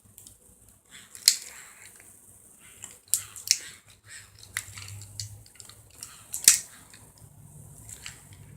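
A dog chewing and biting on a toy: irregular sharp clicks and crunches, the loudest about a second in and again past six seconds.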